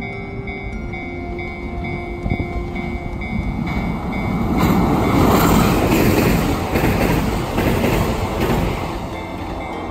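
A Kintetsu Minami-Osaka Line electric train passing, building from about four seconds in to a loud rush with the clack of wheels over rail joints, then easing off near the end. Soft background music plays under the start.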